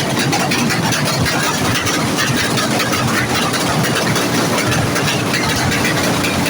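A vehicle engine running steadily, heard as a loud, even mechanical noise.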